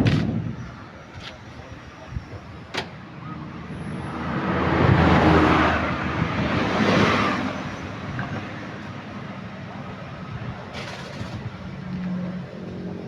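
A motor vehicle passing close by on the road: its engine and tyre noise swells over a few seconds and then fades. A sharp knock sounds right at the start.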